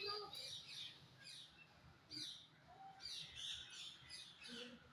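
Bird chirping: a run of short, high chirps, each falling quickly in pitch, repeated several times a second in clusters.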